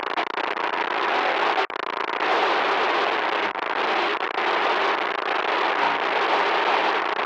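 Loud, harsh static noise: a dense crackling hiss that cuts out for an instant about a second and a half in.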